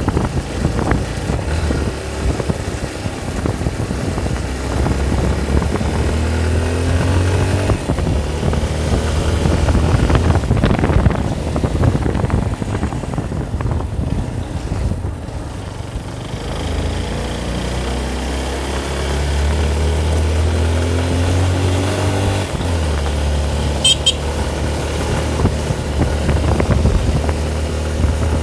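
A vehicle engine running under way, repeatedly rising in pitch as it accelerates and then dropping as the gears shift.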